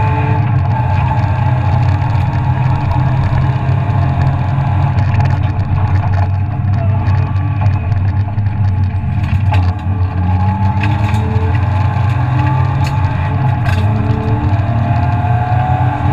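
BMW E36 323ti rally car's inline-six engine running hard at stage speed, heard from inside the stripped cabin with road noise. A few sharp knocks come through, and a rising whine builds near the end.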